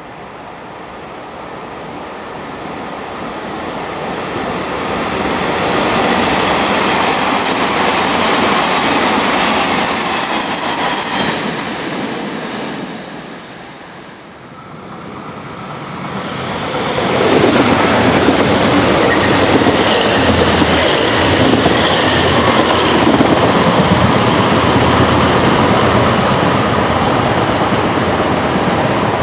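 381 series limited-express electric train approaching and running past on the curve, its rumble and wheel clatter swelling over the first several seconds. After a brief dip about halfway through, a louder stretch of rail noise with clattering wheels follows and lasts to the end.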